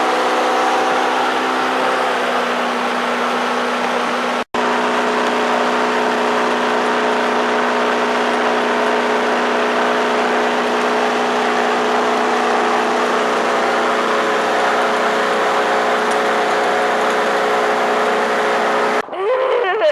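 Motorboat engine running steadily at cruising speed with a constant hum, under a broad rush of wind and water. The sound drops out for an instant about four seconds in and cuts off just before the end.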